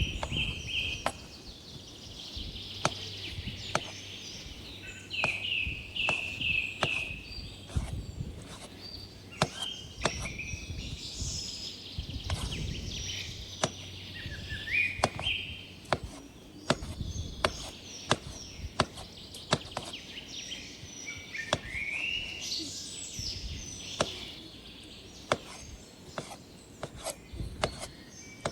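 A knife chopping on a wooden cutting board in sharp, irregular strokes, about one or two a second. Birds chirp throughout.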